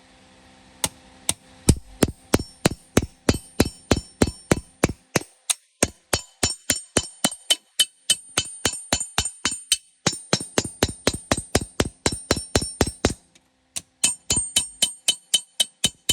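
Hammer blows on metal in steady runs, about three to four strikes a second, each with a short metallic ring. The runs stop briefly a few times.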